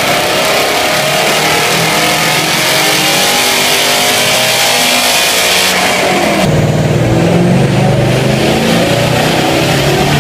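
Toyota 1UZ-VVTi 4.0-litre V8 running at full throttle on a chassis dyno, heard through a Borla cat-back exhaust. The revs climb steadily for about six seconds, then the pitch drops and the engine settles into a deeper, lower note.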